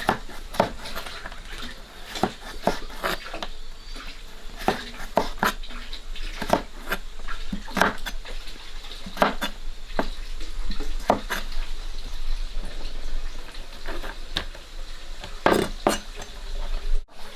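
Utensils and dishes clinking and knocking in irregular, sharp taps, as in food preparation.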